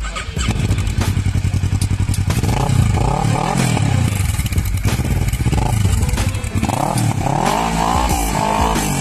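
2018 Kawasaki Ninja 650's parallel-twin engine through an Akrapovic exhaust, idling with a pulsing beat and revved up and back down several times, most strongly in the second half.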